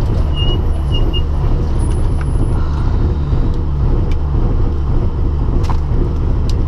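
Rally car engine idling steadily while the car stands still, heard from inside the cabin, with a couple of faint ticks near the end.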